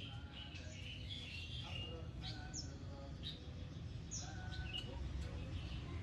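Birds chirping: short, high, downward-sweeping chirps repeated every half second to second, over a low hum.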